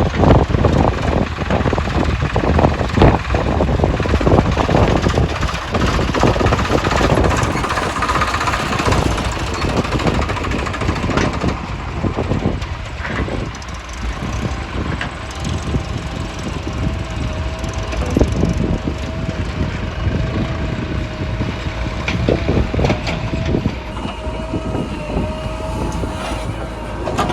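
Diesel engines of a backhoe loader and tractor running under load while soil is dug and loaded, with frequent knocks and clatter. From about halfway a steady, slightly wavering whine joins.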